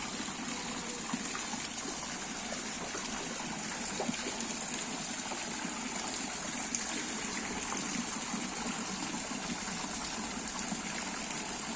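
Water from a Balinese holy spring bathing place (petirtaan) gushing and trickling steadily into its pool, an even splashing rush.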